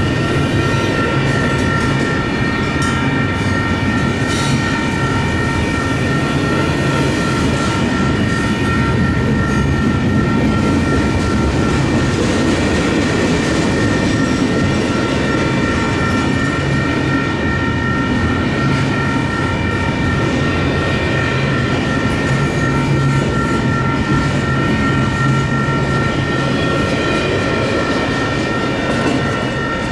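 Union Pacific double-stack intermodal freight train's container-laden well cars rolling past at a grade crossing: a steady rumble of steel wheels on rail, with several steady high-pitched ringing tones held over it.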